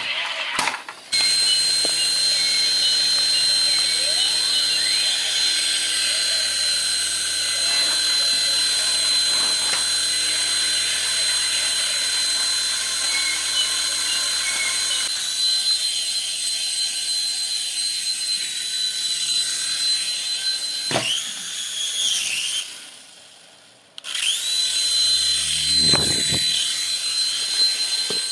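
Toy RC helicopter's small electric rotor motors running with a steady high whine; it starts about a second in, dies away about three-quarters of the way through, and starts up again a second or so later.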